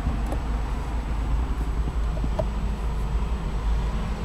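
Steady low rumble and hiss of a car's engine idling, heard from inside the cabin, with a few faint clicks.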